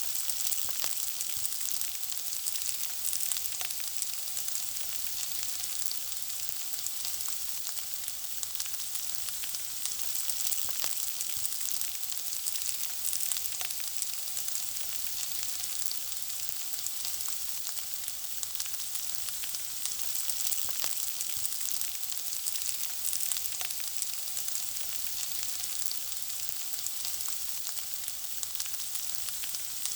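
Food frying in hot oil: a steady, bright sizzle dotted with many small crackles and pops.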